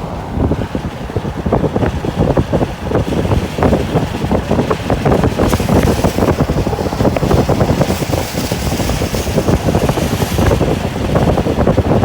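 Wind buffeting the microphone: a loud, gusty rumble with crackling, and no steady tone under it.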